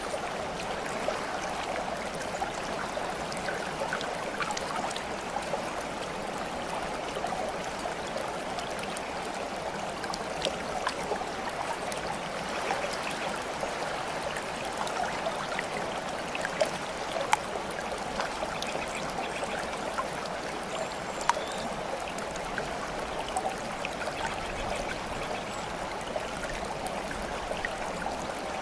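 Steady babbling and trickling water, like a small stream, with small splashes and drips scattered throughout.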